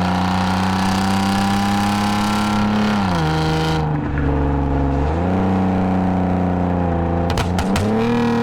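2010 Lexus IS250 AWD's 2.5-litre V6 through an aftermarket full exhaust with valved mufflers, under way. The note holds steady, falls away about three seconds in, then climbs back in steps, once about five seconds in and again near the end.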